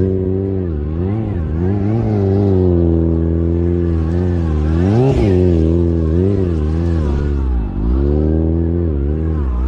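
Motorcycle engine being revved up and down over and over, its pitch rising and falling every second or two with a steady low drone underneath.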